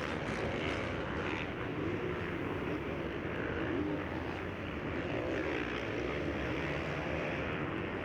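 Motocross bikes racing on the track: several engines blend into a steady drone, with the pitch wavering up and down as riders rev on and off the throttle.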